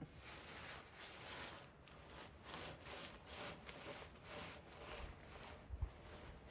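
A series of rough rustling strokes, about one and a half a second, with a short low thump near the end.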